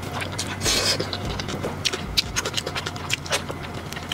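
Close-miked eating sounds: a person chewing a mouthful of rice with pickled greens and braised pork knuckle, a dense run of small smacking clicks from lips and mouth, with one longer louder smear just before one second in.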